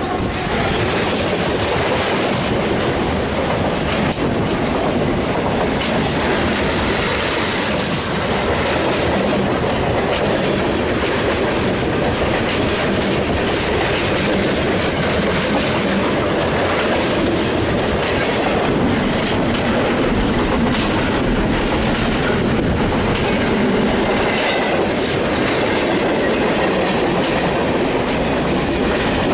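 Freight cars of a BNSF mixed freight train rolling past close by: a steady, loud rumble of steel wheels on rail with clickety-clack over the rail joints, and a faint wheel squeal near the end.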